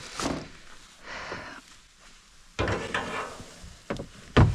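Objects being moved and set down by hand: a stretch of rustling, scraping handling noise and a few knocks, the loudest a sharp knock near the end.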